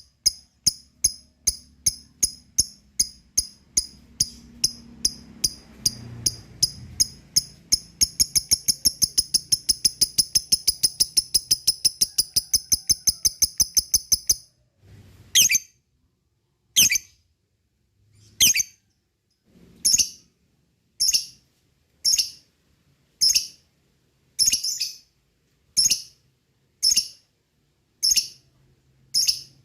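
Lovebird giving sharp, high chirps in a series: about two or three a second at first, quickening to a rapid chatter of about five a second around eight seconds in, then breaking off a little past the middle into single chirps about one every second or so.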